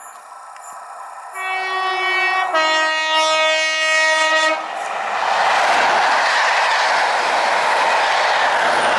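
Class 43 HST power car's two-tone horn sounding a higher note then a lower note, about three seconds in all, as the train approaches at speed. Then the loud rush and rail clatter of the train passing through at speed.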